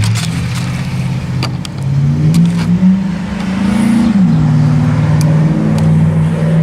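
A car engine running nearby. It revs up about two seconds in and drops back to a steady run about four seconds in. A few light clicks sound over it.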